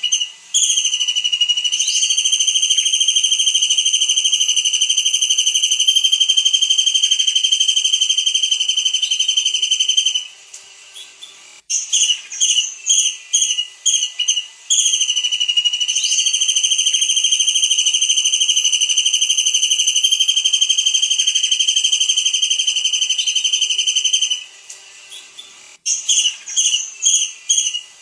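Kingfisher (tengkek udang) calling: a quick series of short shrill notes, then a long high-pitched trill held for about eight seconds. The same sequence comes round twice, as on a looped songbird-training master recording.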